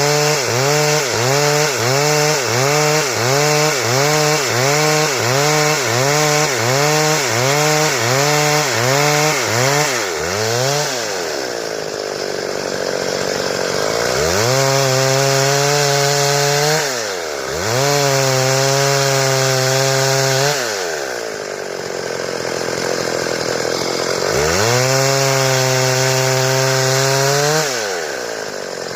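Stihl two-stroke chainsaw cutting a wooden board. For the first ten seconds or so its pitch rises and falls about twice a second; then it drops low and is brought back up to a high steady pitch three times, for about three seconds each, with short dips between.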